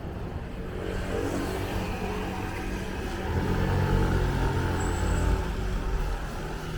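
A road vehicle driving past, its engine and tyre noise building to loudest about four to five seconds in, then easing off.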